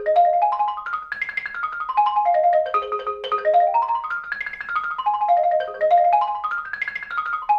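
Xylophone played in quick single notes: an arpeggio exercise on an A-flat sixth chord that climbs and then descends, doubling back on itself as it goes. The run goes up and down three times.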